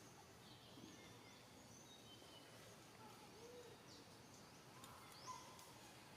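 Near silence: a faint outdoor background with scattered short, high bird chirps.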